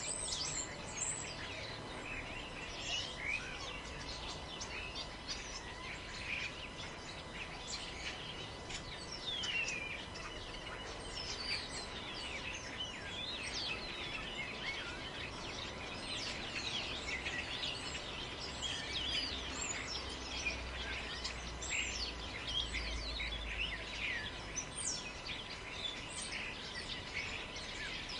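Many forest birds chirping and calling at once, a dense chorus of short, overlapping chirps and quick pitch sweeps over a soft background hiss. A low wind rumble swells about twenty seconds in.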